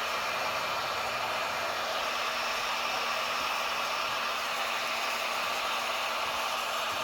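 Heat gun running steadily, its fan blowing with a constant whooshing hiss and a faint motor hum underneath.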